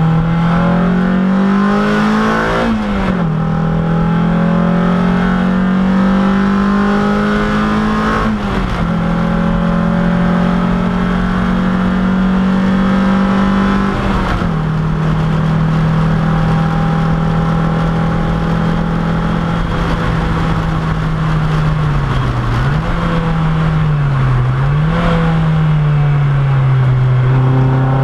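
Race car engine heard from inside the cockpit under hard acceleration. Its note climbs and drops sharply three times as the driver shifts up through the gears. It then eases off, dips and rises twice in quick succession, and settles into a lower steady drone near the end.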